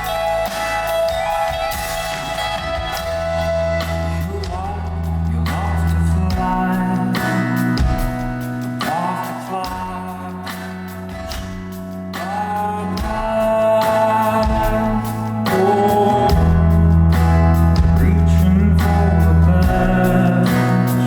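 Live rock band music: electric guitars, bass and drums with a sung lead line, getting louder about halfway through.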